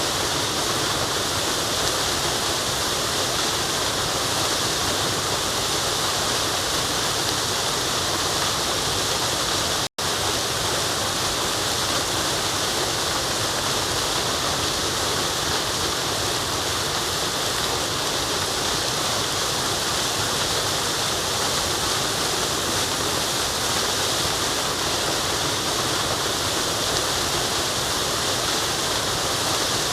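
Waterfall rushing in a steady, unbroken roar of falling water, cut by a momentary dropout to silence about ten seconds in.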